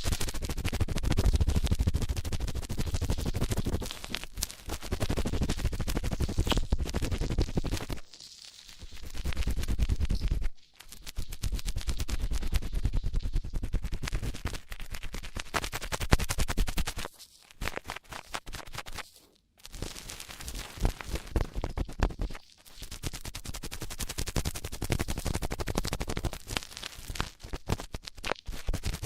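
ASMR ear-cleaning sounds: close, rapid scratching and rubbing in a microphone's ear, going in spells of a few seconds with short breaks.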